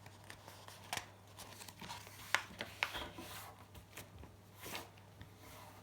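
A sheet of paper being folded and creased by hand: scattered short rustles and crinkles, with a low steady hum underneath.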